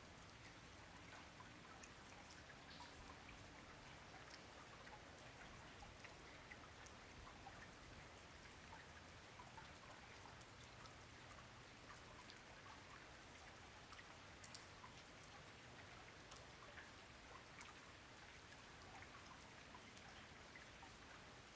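Faint, steady rain: an even hiss with many scattered individual drops ticking through it.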